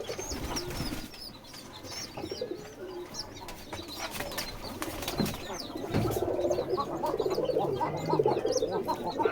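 Domestic pigeon squab giving many short, high, squeaky peeps over and over, the begging call of a chick being fed by its parent. From about six seconds in, a louder low, rapidly fluttering sound joins it.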